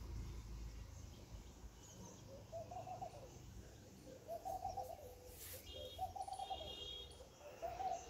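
A bird's low calls repeated four times, each just under a second long and about a second and a half apart. Faint high chirping from a smaller bird comes in partway through.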